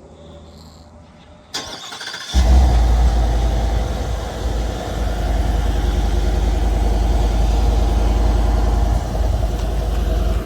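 Cold start of a Ford 5.0 Coyote V8 through its stock exhaust: the starter cranks briefly about a second and a half in, the engine catches with a flare, then settles into a steady idle.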